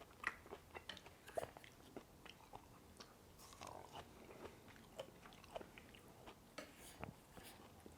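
Close-miked chewing of noodles and meat, with irregular small wet mouth clicks and smacks.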